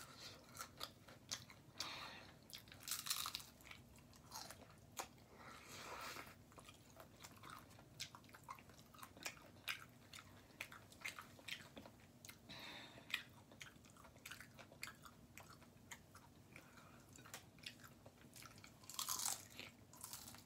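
A person eating tacos close to the microphone: bites and chewing, with many small mouth clicks and a few louder bites now and then.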